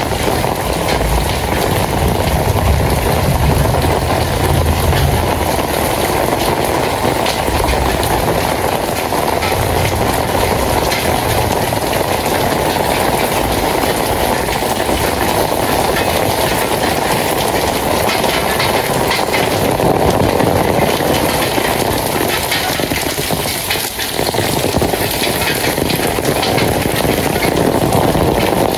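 Steady rain, a dense, even hiss, with a low rumble in the first few seconds.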